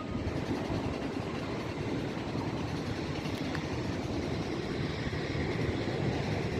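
Steady rumble of engines and machinery on an airport apron, with a faint low hum underneath.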